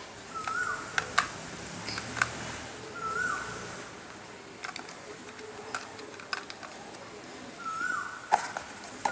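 A bird calling three times with a short call, each one held briefly and then dropping in pitch, along with several sharp clicks and knocks.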